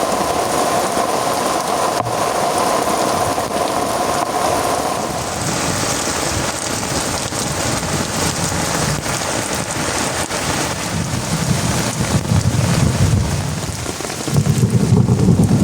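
Heavy rain falling steadily, with a low thunder rumble that builds about two-thirds of the way in and is loudest near the end.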